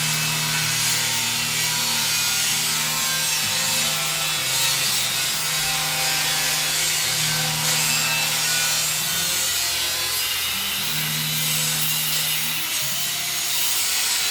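Angle grinder cutting 2 mm steel plate: a continuous harsh grinding hiss with the motor's hum underneath, changing pitch a few times as the disc loads.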